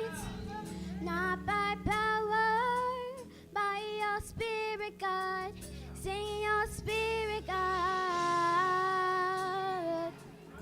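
Female voices singing a slow worship song over sustained low instrumental chords, ending on a long held note near the end.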